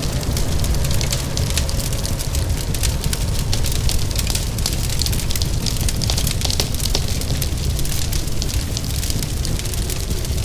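Wood fire crackling in a fireplace, with many small quick pops over a steady low rumble, mixed with the even hiss of falling rain.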